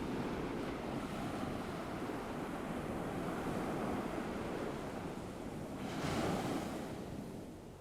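Ocean waves washing onto a shore, a steady surf hiss that swells twice and eases off near the end.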